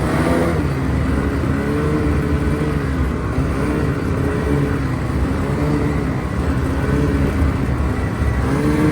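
Snowmobile engine running under way, its pitch rising and falling every second or so.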